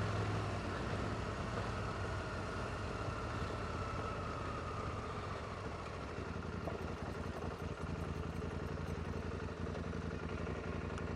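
Motorcycle engine running steadily at low revs, close to idle.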